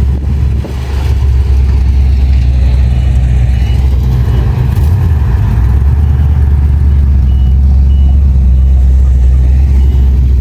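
Classic car's engine and exhaust running with a loud, deep, steady rumble as the car drives out.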